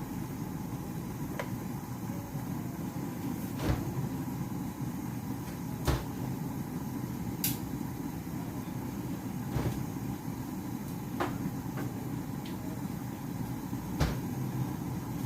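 Kitchen noise during cooking: a steady low rumble with about six scattered knocks and clinks of cookware.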